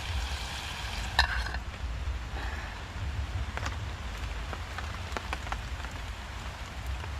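Steady rain falling, with scattered sharp ticks of drops through it and a louder click about a second in.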